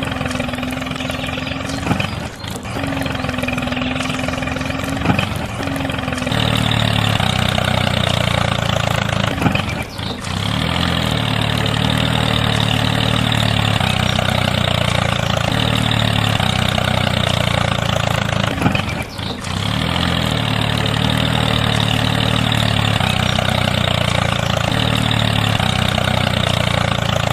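A motor running steadily throughout, getting louder and heavier about six seconds in, with two brief dips later on.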